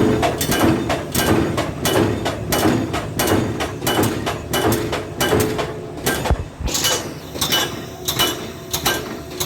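Heavy machinery at work: an excavator-mounted hydraulic attachment making a run of irregular metallic knocks and clanks, several a second, over steady engine and hydraulic noise.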